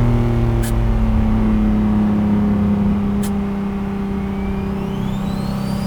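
Single-turbo Infiniti G37's VQ37 V6 engine running at a steady drone. From about four seconds in, a turbo whine joins it and rises in pitch as the turbo spools up.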